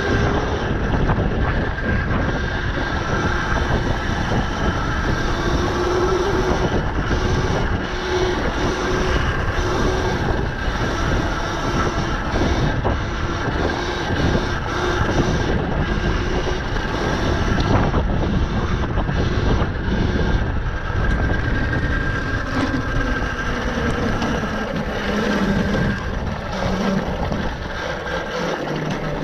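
A 48-volt Tuttio electric dirt bike being ridden along a trail: wind buffets the microphone over tyre and trail noise, and the electric motor's whine drifts up and down in pitch with speed.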